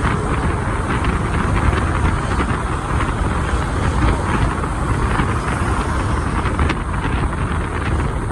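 Wind rushing over the microphone and the steady running of a motorbike amid surrounding street traffic while riding.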